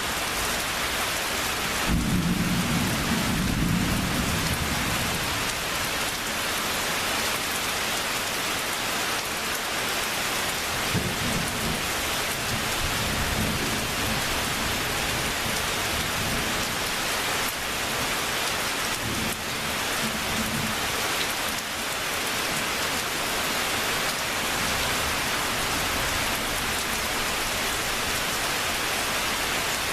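Steady heavy rain with rolling thunder. A strong low rumble comes about two seconds in, with weaker rumbles roughly ten to fifteen seconds in and again around twenty seconds.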